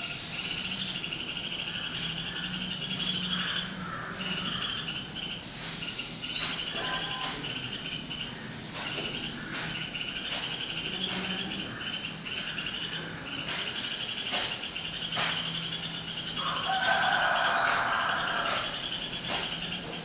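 Birds chirping: short rising calls every few seconds over a steady, rapid high trill. A louder, rougher burst of sound comes about three quarters of the way through.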